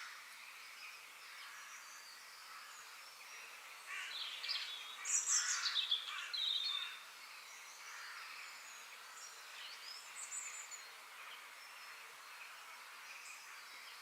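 Songbirds singing over a steady high background hiss, with a louder burst of song about four to seven seconds in whose notes slide downward, and fainter chirps scattered around it.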